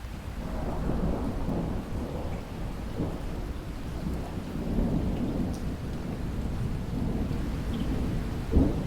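Rolling thunder in a rainstorm, with steady rain beneath it. The rumble swells about half a second in and keeps going, with a short, louder burst near the end.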